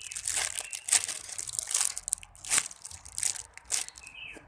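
Foam squishy toy being squeezed and handled close to the microphone, giving irregular crinkly crackling.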